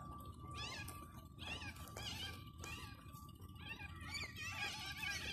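Birds calling over and over in short, wavering, chirping calls that grow busier and louder near the end, over a low background rumble.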